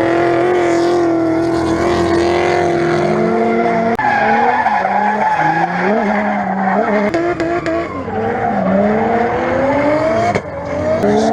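Nissan RB25DET turbocharged straight-six in a drift car running at high revs, held steady at first, then rising and falling again and again as the car is driven sideways, with tyres squealing. The sound changes abruptly about four seconds in.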